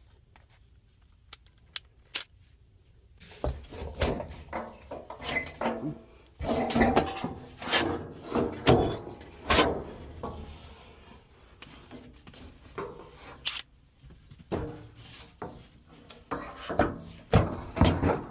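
A metal HVAC fan motor falling and tumbling: after a few faint clicks comes a long run of irregular bangs, scrapes and clattering knocks. It eases off for a moment and then starts up again.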